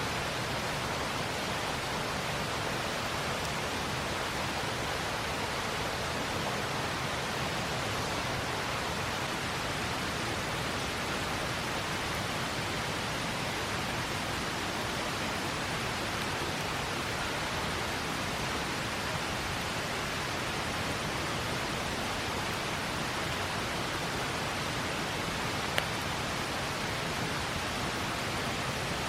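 Steady rushing of a flowing river, an even noise that doesn't change, with a single sharp click near the end.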